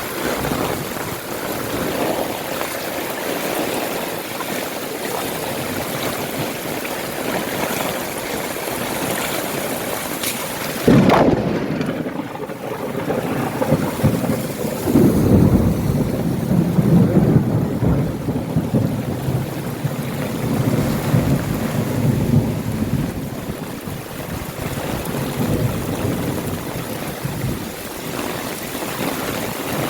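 Heavy rain falls steadily throughout. About a third of the way in a sudden sharp crack is followed by a low rumble lasting several seconds, as of thunder.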